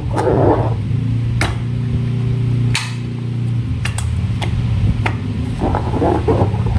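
Hands working slime and balloons: sticky squelching with a series of sharp snapping clicks. A low steady hum runs under the middle of it.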